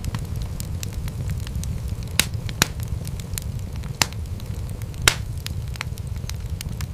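Wood fire burning in a fireplace, crackling with frequent small snaps over a low steady rumble of flame. Four louder pops stand out around the middle.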